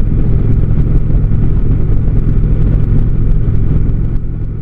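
Indian Springfield's V-twin engine running steadily at road speed, with wind rumbling on the microphone. It fades out near the end.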